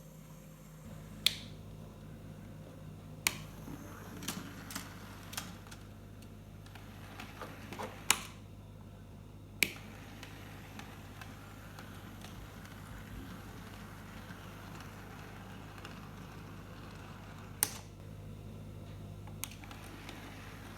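Hornby OO gauge Peckett W4 model locomotive running: a low, steady motor hum with a scatter of sharp clicks, several close together in the first ten seconds and one more near the end.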